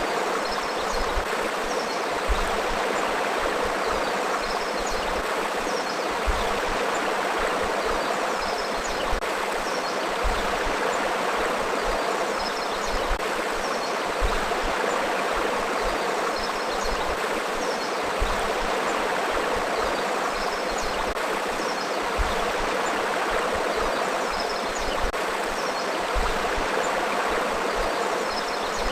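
River water flowing steadily, an even, continuous rush with faint high chirps now and then above it.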